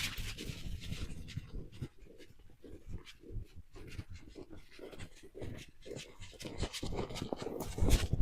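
A beagle panting close by, with irregular rustling and light knocks; the knocks grow denser and louder near the end.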